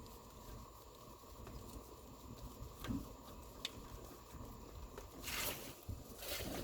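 Quiet handling of parts: a few light clicks, then two short rustling scrapes near the end, over a steady low hum.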